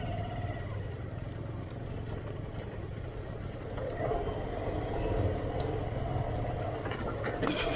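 Motorcycle engine running at low revs, louder from about four seconds in, with a few sharp clicks near the end.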